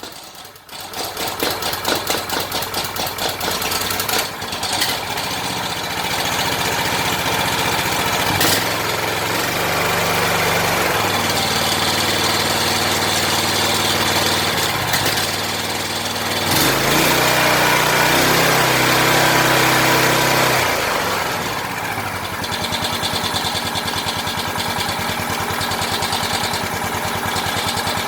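Honda GX390 single-cylinder engine on a pressure washer catching on its first pull and running steadily. In the middle stretch its note steps up and down several times and is loudest about two-thirds of the way through. A rattle that the owner suspects is the frame cage is heard.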